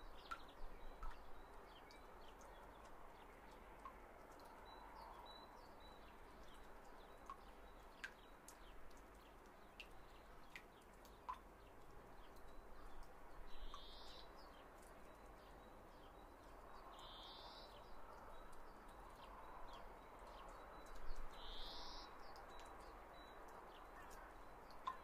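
Faint background hiss with three short, high bird-like chirps a few seconds apart in the second half, and scattered faint clicks.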